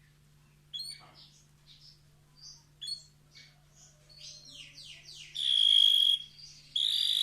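Canary singing: scattered short high chirps, then a quick run of falling notes, then two loud, high, steady trills near the end.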